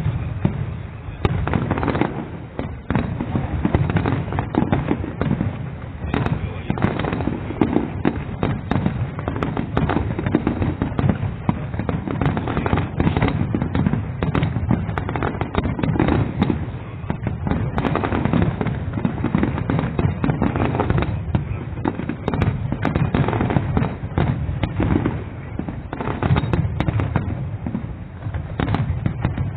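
Fireworks display: shells bursting in rapid succession, a dense, unbroken run of bangs and crackles.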